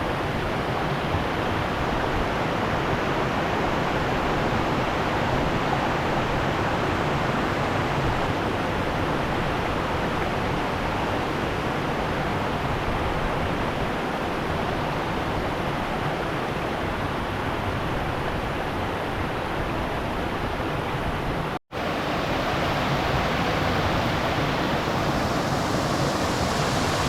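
Steady rushing of river water, with a momentary dropout about three-quarters of the way through.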